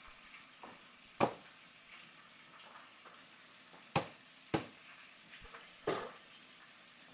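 Faint steady sizzle of food frying in a pan, broken by four sharp knocks of kitchen utensils and dishes, two of them close together in the middle.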